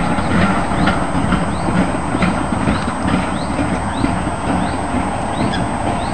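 Passenger train on a heritage railway running past across the water: a steady low rumble with a regular light clicking about two or three times a second.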